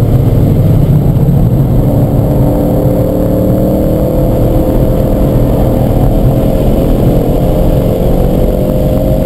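Car engine heard from inside the cabin at high revs in fourth gear, over heavy road and wind rumble. The engine eases through a corner on part throttle, then pulls back up at full throttle, its pitch climbing steadily over the last several seconds.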